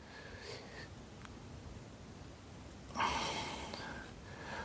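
A short, noisy breath out through the nose about three seconds in, with a faint click a little over a second in, over quiet room tone.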